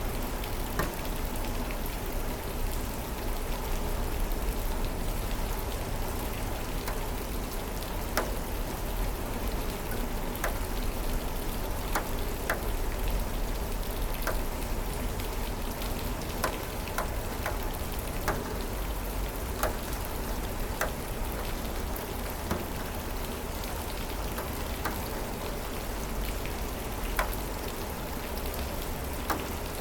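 Steady rainfall hissing, with individual drops clicking sharply on a hard surface every second or so.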